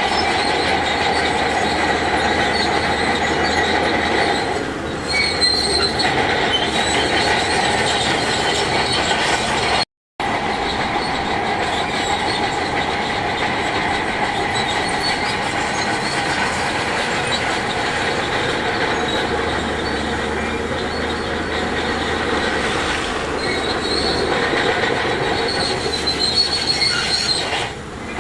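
Heavy earthmoving machines at work pushing rock: diesel engines running with a continuous metallic squeal and clatter, like crawler bulldozer tracks. The sound breaks off for an instant about ten seconds in.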